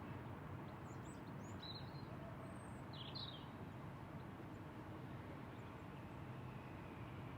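Faint outdoor ambience: a steady low background rush with a few short, high bird chirps during the first half.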